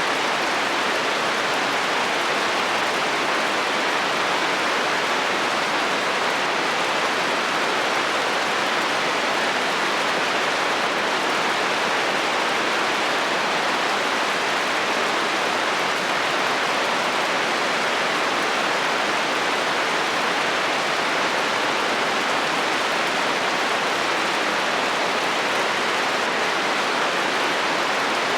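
Steady heavy rain drumming on a metal roof: an even, unbroken hiss with no thunder.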